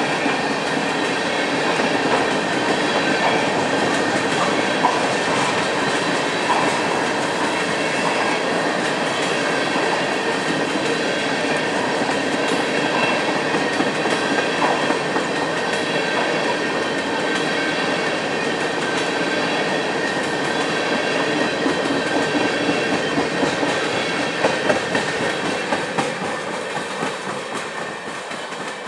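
Freight train tank cars rolling past: a steady rumble of steel wheels on rail, with the clack of wheels over the track and a few sharper knocks. It grows quieter over the last few seconds.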